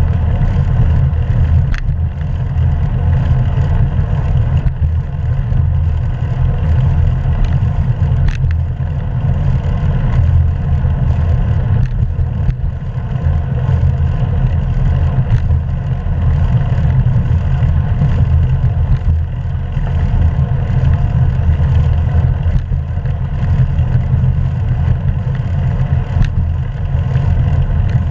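Wind buffeting a GoPro camera's microphone on a moving bicycle: a loud, steady low rumble, with road noise and a few sharp clicks and rattles from the bike.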